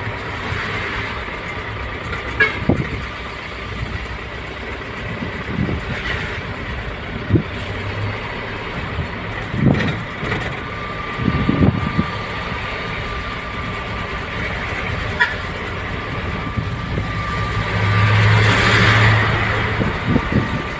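A truck driving on the road with steady road and engine noise, a few short knocks along the way, and a louder swell near the end.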